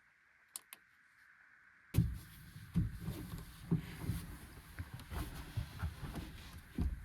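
Near silence with two faint clicks, then, about two seconds in, a sudden thump and a run of irregular low bumps and knocks in a small enclosed space.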